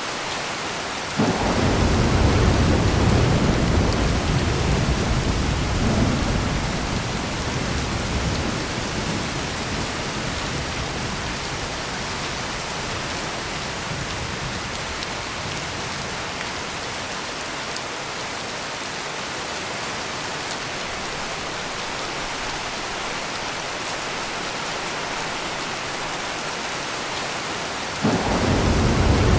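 Heavy rain falling steadily. About a second in, a deep thunder rumble starts suddenly, rolls and fades away over the next several seconds. A second rumble starts abruptly near the end.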